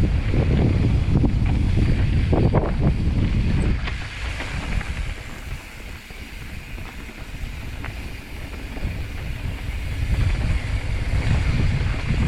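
Mountain bike rolling fast down a dirt trail: tyre and trail rumble with wind buffeting the microphone and small rattles, easing off about four seconds in and building up again about ten seconds in.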